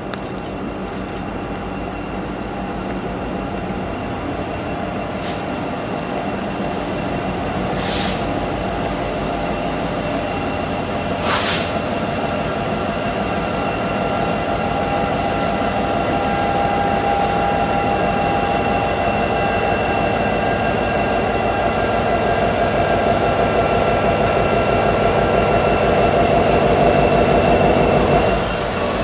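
Norfolk Southern freight train rolling past, its wheels squealing with several steady high-pitched tones over the rumble of the cars, slowly growing louder. There are two sharp clanks about 8 and 11 seconds in.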